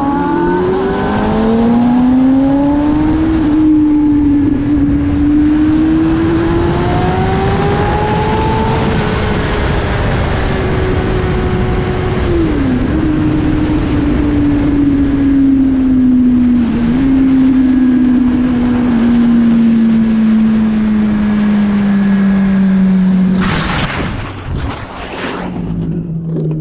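Kawasaki ZX-6R 636 inline-four sport bike engine pulling under wind rush, its note rising and dropping through the revs with short dips at gear changes. Near the end a sudden burst of harsh noise cuts across it, and the engine falls to a lower, quieter note.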